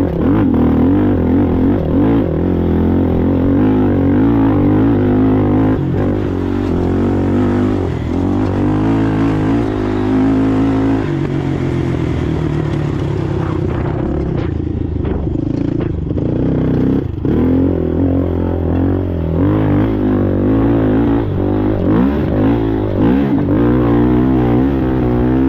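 Polaris Sportsman ATV engine running hard, its pitch wavering up and down as the throttle opens and eases, with a few knocks from the machine over rough ground. Around two-thirds of the way through the note drops briefly before picking up again.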